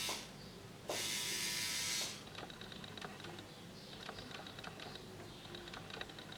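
Quiet scattered clicking and tapping, with a one-second burst of hiss about a second in.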